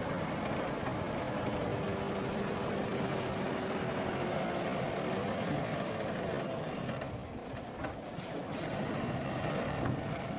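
Diesel engine of a heavy earthmoving machine running steadily, with a few sharp knocks near the end.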